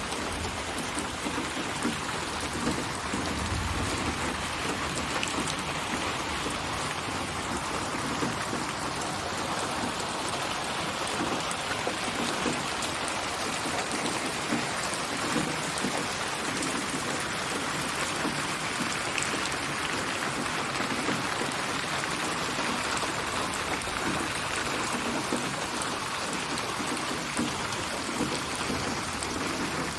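Steady rain falling on surfaces, heard as a dense, even wash of drops. It is a synthetic rain ambience layered from many rain recordings and panned around the listener in 8D surround.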